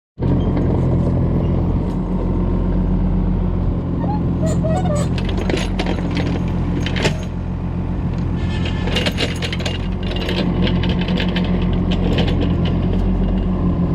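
Diesel engine running steadily under work at an excavator loading soil, with scattered knocks and clatter from the digging and loading.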